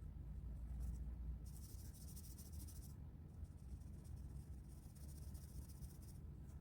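Colouring strokes scratching on paper: two stretches of rapid back-and-forth shading, one about a second and a half in and a longer one from about four seconds until near the end, over a faint low hum.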